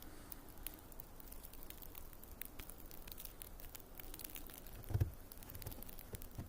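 Light, irregular pattering and ticking of wet snow falling, with a brief low thump about five seconds in.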